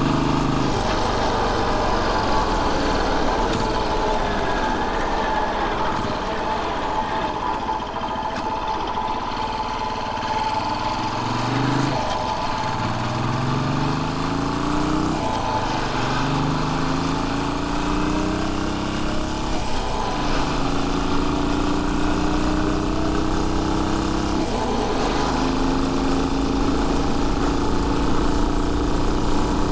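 Royal Enfield Bullet 500's single-cylinder four-stroke engine under way, running unevenly at low revs for the first third, then picking up speed: it rises in pitch in several runs, each cut short by a brief dip as it shifts up through the gears.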